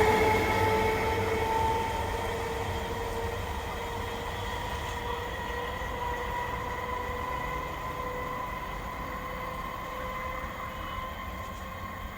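Electric multiple unit local train pulling away, its motors whining in a slowly rising pitch as it picks up speed and fading as it moves off.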